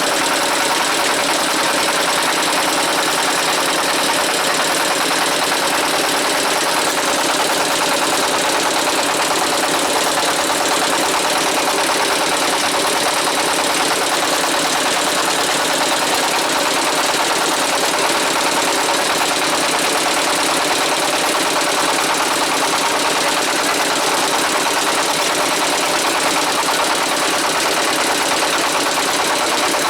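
Small boat's engine running steadily and loudly, with no change in speed.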